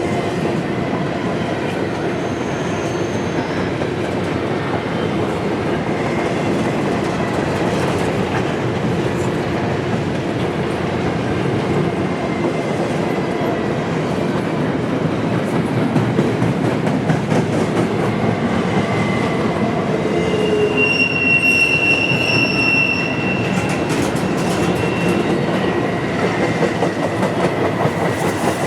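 Freight train cars rolling past on the rails, wheels clicking and rumbling steadily, with a high-pitched wheel squeal for about two seconds around three quarters of the way through.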